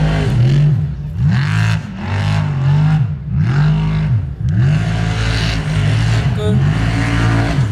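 Formula offroad hill-climb car's engine revving hard, its pitch rising and falling over and over as the throttle is worked on the climb.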